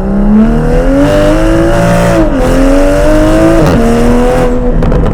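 Toyota GR Supra's Dinan exhaust with a catted downpipe under hard acceleration: the engine note climbs, drops at an upshift about two seconds in, climbs again and drops at a second upshift a little past three and a half seconds, then holds steady and eases off near the end.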